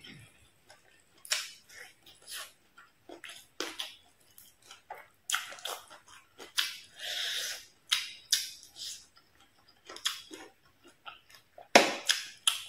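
Close-miked eating of fried fish: chewing and biting, heard as many short, irregular sharp sounds, with a longer noisy sound about seven seconds in.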